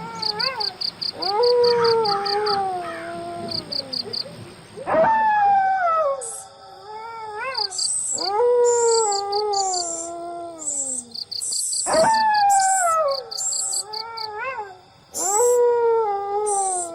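Dogs howling at night, one long falling howl after another, several overlapping. Insects chirp behind them in a fast, even pulse.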